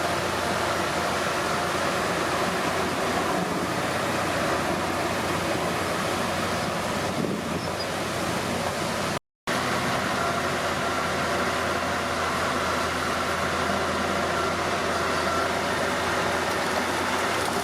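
Komatsu D31P crawler bulldozer's diesel engine running steadily. The sound cuts out completely for a split second about nine seconds in.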